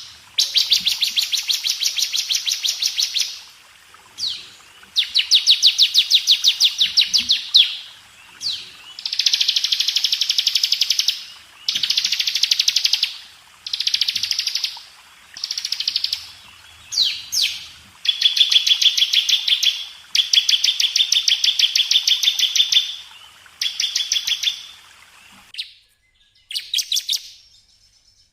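Bar-winged prinia (ciblek) singing: a run of fast trills of rapidly repeated high notes, each lasting one to three seconds with short breaks between, getting shorter near the end.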